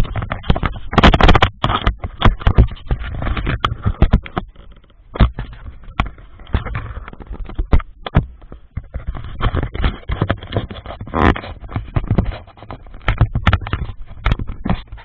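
Wind buffeting and a dense run of irregular knocks and rattles on a motorcycle rider's camera microphone while riding.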